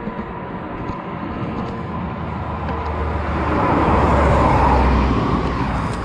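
A road vehicle passing, its engine and tyre noise swelling to a peak about four seconds in and then fading.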